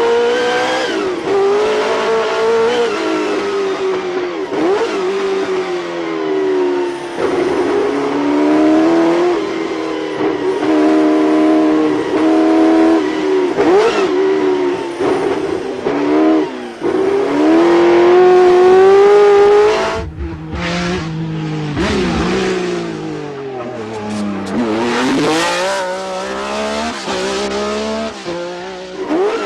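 Sports-prototype race car engines at full throttle, the pitch climbing and dropping repeatedly through gear changes, with a brief sharp drop in level about two-thirds of the way through and a deep dip and recovery in pitch soon after.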